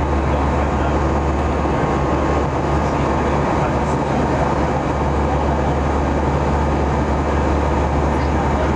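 Steady jet engine and airflow noise inside the cabin of an airliner in flight, with a strong low hum and a few faint steady tones.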